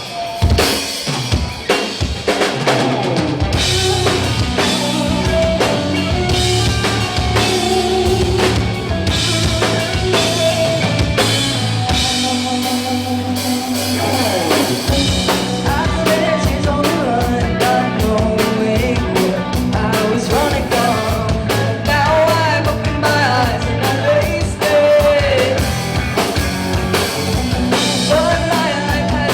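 Live rock band playing: drum kit with snare and bass drum driving a steady beat under bass and guitar. About twelve seconds in, the bass and kick drop out for a few seconds, then the full band comes back in.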